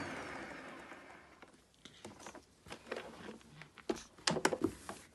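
Turbomax upright vacuum cleaner's motor winding down after being switched off, its whine falling in pitch and fading over about two seconds. This is followed by a few scattered clicks and knocks.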